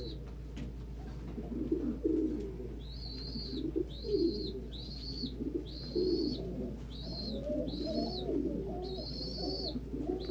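Several domestic pigeons cooing over one another, with a high, thin call repeating about once a second through most of the stretch.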